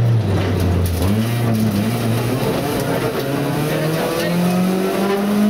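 Rally car engine heard from inside the cockpit. It comes off the power and drops in pitch as the car takes a bend, then revs up hard under acceleration, falling back at a gear change before climbing again.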